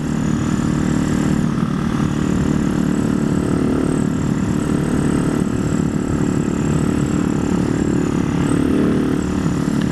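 Single-cylinder Husaberg supermoto engine pulling at a steady cruising pitch under way, rising slightly near the end.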